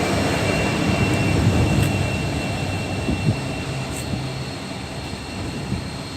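Passenger train running on the track and moving away, its rumble fading steadily, with a faint steady high whine.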